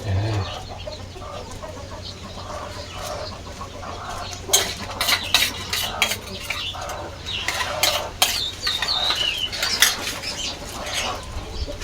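Spoons and dishes clinking and knocking in quick, irregular clicks from about four seconds in, as spices are worked into a raw whole chicken, with chickens clucking in the background.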